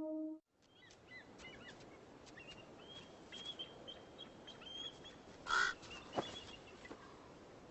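Music stops, then a series of thin, high chirping bird calls, and about five and a half seconds in one loud, harsh raven call.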